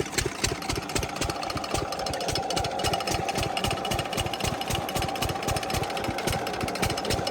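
Diesel engine water pump set running, its exhaust beating in rapid, even thumps. A steady higher hum joins in about two seconds in.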